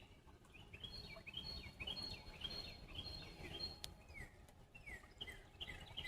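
Songbirds calling: a steady run of short chirps, each sliding downward in pitch, about two a second, with a faint steady high tone behind them. A single sharp click just before the four-second mark, over a low, even background rumble.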